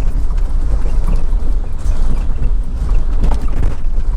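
A vehicle driving slowly over a gravel or dirt track, with a steady low road rumble and irregular crunching and knocking from the tyres.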